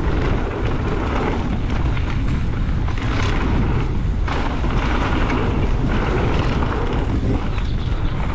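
Steady, loud wind buffeting the microphone while a mountain e-bike runs fast down a dirt trail.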